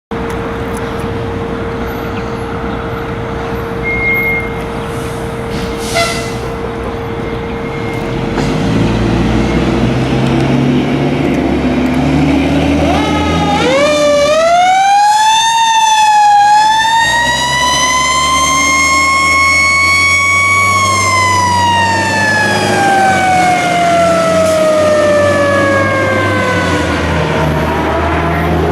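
Fire engine's Federal Q mechanical siren (the "screaming Q") winding up to a scream about halfway through, dipping briefly, climbing again, then slowly coasting down in pitch. Under it the truck's engine runs and grows louder as the rig pulls out.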